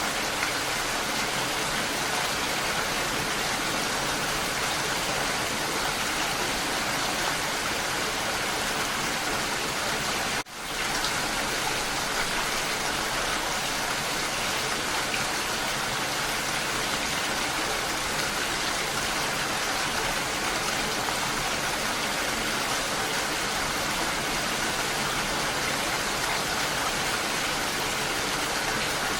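Steady rain falling, an even dense hiss that stays level throughout. About ten seconds in it cuts out for a split second and fades straight back in.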